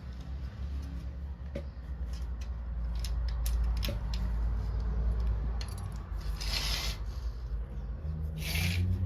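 Curtain fabric rubbing and swishing as it is handled, with scattered small clicks from the curtain hooks or runners and two louder swishes, one about six and a half seconds in and one near the end, over a low rumble.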